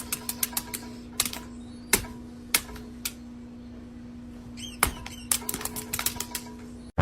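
Irregular sharp clicks and taps, often in quick clusters, over a steady low hum, with a brief high squeak about five seconds in; the sound cuts off abruptly near the end.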